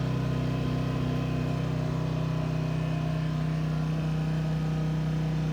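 A steady low mechanical hum from a running motor, unchanging throughout.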